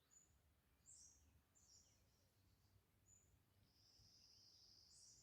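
Faint wild birdsong in a forest: a few short, high chirps, then a longer high trill from about three and a half seconds in, over quiet background noise.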